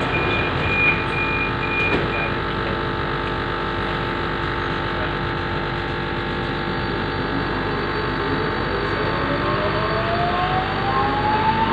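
Inside a Budapest M2 metro train: a steady rumble throughout, with intermittent high beeps for the first couple of seconds, typical of a door warning signal. From about eight seconds in, a whine rises steadily in pitch as the train speeds up.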